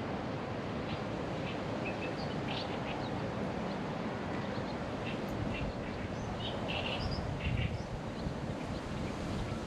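Wind rushing steadily on the microphone, with short high bird chirps scattered throughout.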